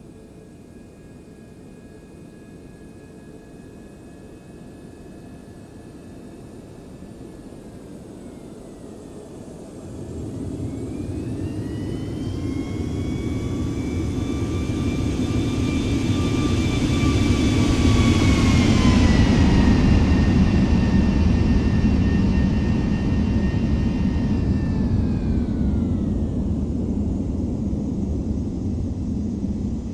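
Boeing 737 MAX 9 airliner's CFM LEAP-1B jet engines passing by. The rumble and the fan whine swell from about a third of the way in and peak a little past halfway, where the whine drops in pitch as the jet goes past. Then it slowly fades.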